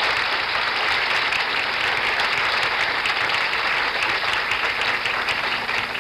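Studio audience applauding steadily after an introduction, a dense wash of clapping that holds throughout.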